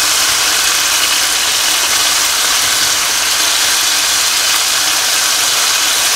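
Marinated chicken pieces sizzling in hot oil in a frying pan: a steady, even hiss.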